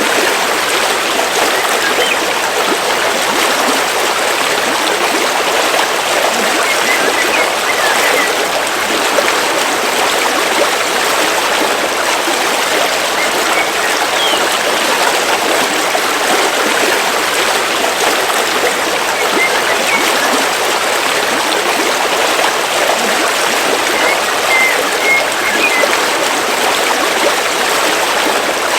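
River water flowing steadily over rocks in a stream, an even rushing and babbling with no break. A few faint, brief high chirps show now and then.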